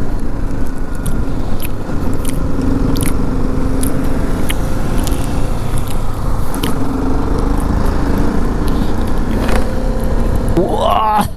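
Crisp crunching of a snack being chewed close to the microphone, with the crinkle of a foil snack packet as a hand reaches in, over the steady running of a BMW G310GS motorcycle's single-cylinder engine and road noise while riding.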